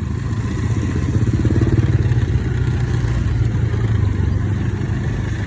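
An engine running steadily with a rapid low pulsing, picking up a little over the first couple of seconds.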